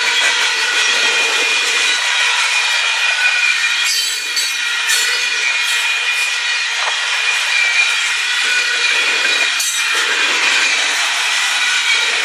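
Union Pacific freight train rolling past close by, its steel wheels on the rails giving a loud, steady grinding hiss with several high ringing tones held throughout.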